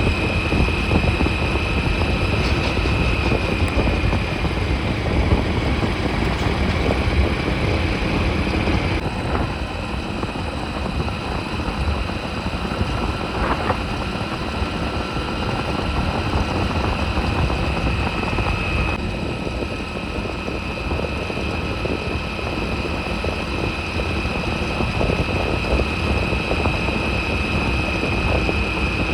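Motorcycle riding along at a steady pace: a constant engine and wind rumble. A thin high whine runs over it and drops out for several seconds in the middle.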